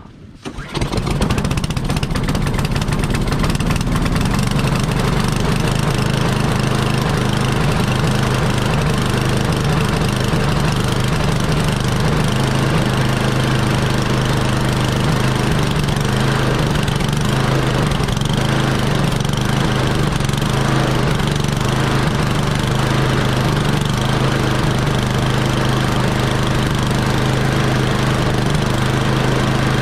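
Snowblower's small gas engine starting up about a second in, then running steadily.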